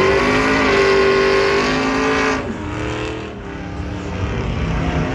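Truck engine revving hard, held at high revs for about two seconds, then dropping off suddenly to a lower, quieter running.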